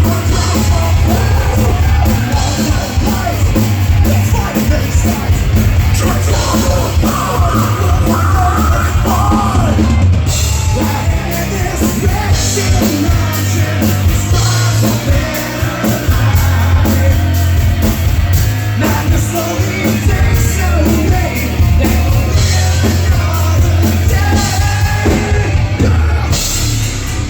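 Live heavy metal band playing loud, with distorted guitars over a driving drum kit.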